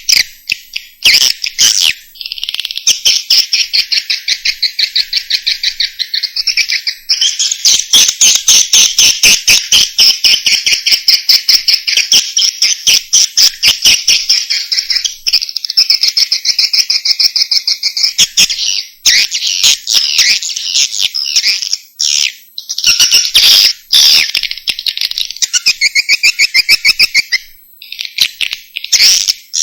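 Recorded swiftlet call (edible-nest swiftlets) used as a lure: fast, high-pitched chirping twitters in long continuous bursts with brief breaks.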